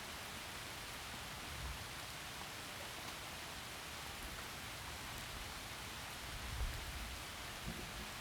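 Steady heavy rain falling through forest trees, an even hiss, with a brief low thump about six and a half seconds in.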